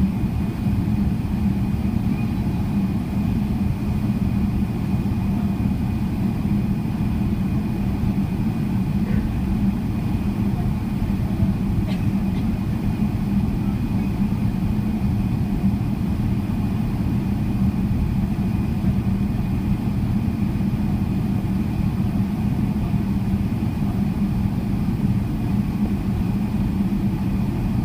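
Steady cabin drone of a Boeing 777-300ER with its GE90-115B engines running, a low, even rumble with a faint constant high whine over it.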